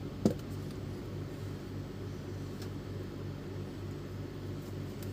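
Steady low machine hum with one short click about a quarter of a second in.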